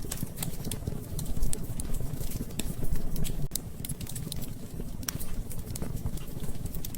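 Wood fire crackling in a fireplace: many irregular pops and snaps over a low rumble of burning logs.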